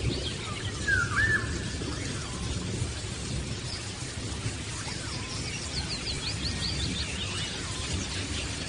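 Small birds calling and singing: a couple of swooping chirps about a second in, then a quick run of high repeated notes past the middle, over a steady low rumble.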